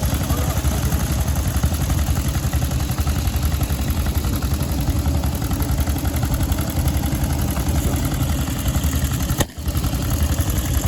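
Veteran motorcycle engines running at idle with a clattery beat, with a short break about nine and a half seconds in.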